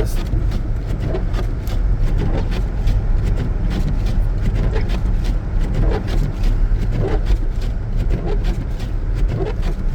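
Steady low rumble of a 2014 Jeep Grand Cherokee driving through deep snow, heard from inside the cabin. Frequent short clicks and knocks sound over the rumble.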